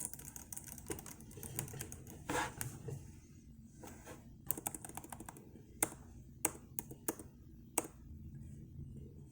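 Typing on a laptop keyboard: irregular key clicks, quick runs in the first couple of seconds, then scattered single taps with pauses between them.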